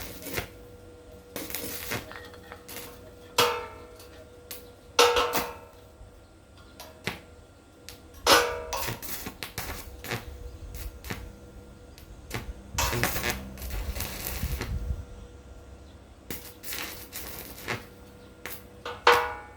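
Metal pieces clanking as they are handled: a few sharp knocks, each followed by a short metallic ring, with lighter clicks between them. There is a rougher scraping stretch a little past the middle.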